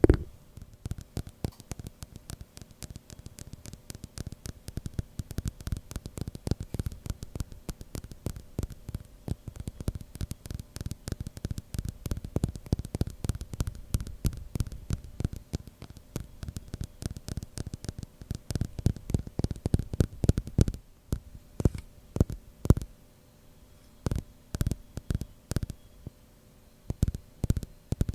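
Rapid tapping on a glass container, many quick taps a second in dense runs. After a short pause about two-thirds of the way through, the taps come in sparser clusters.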